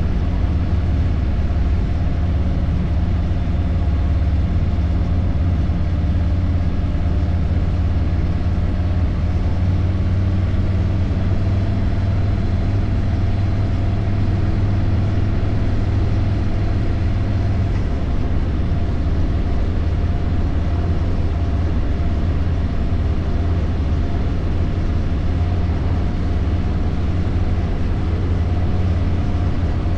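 Harley-Davidson motorcycle engine running steadily while riding, a deep low drone with road and wind noise over it; the engine note shifts slightly about eighteen seconds in.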